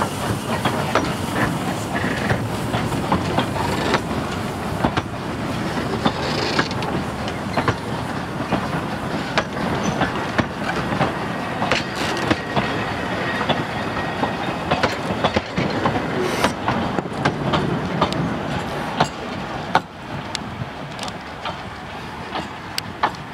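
Narrow-gauge steam train's carriages rolling past, their wheels giving a stream of sharp clicks and clanks over the track. The sound drops away near the end as the train moves off.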